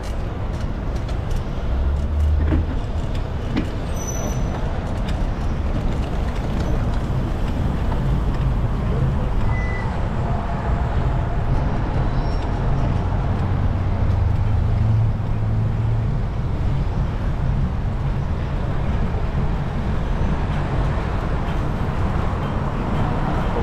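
Steady city traffic and road noise with a heavy low rumble.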